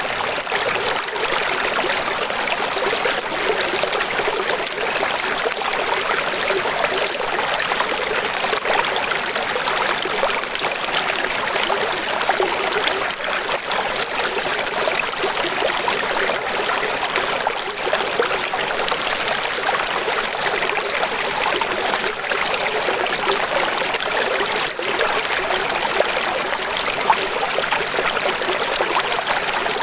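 Running water flowing steadily, an even rushing wash with no breaks or separate splashes.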